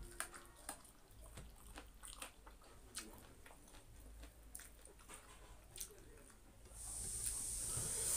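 Close-miked eating sounds: chewing with wet mouth clicks and smacks, irregular and fairly quiet, while a meal of rice and buffalo-meat pickle is eaten by hand. A steady high hiss comes in near the end.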